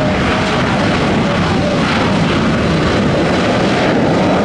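Jet airliner engine noise, a loud, steady rush with no breaks.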